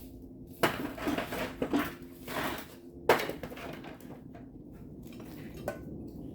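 Metal tools clanking and scraping against sheet metal, a few sharp clatters in the first half and a single click near the end, over a steady low hum.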